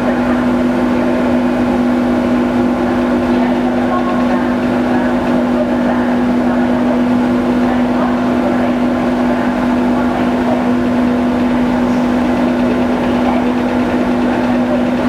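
MV Salish Orca ferry's engines and machinery droning steadily as she departs, with a constant low hum.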